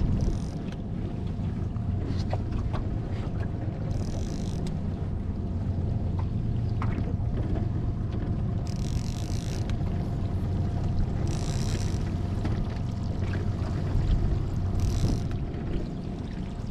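Boat motor running steadily at trolling speed with a low hum. Short high-pitched hissing bursts come five times over it.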